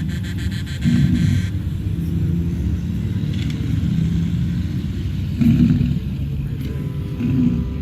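Heavy diesel trucks rumbling past in a steady procession, with swells of louder engine noise as single trucks go by about a second in, about five and a half seconds in, and near the end.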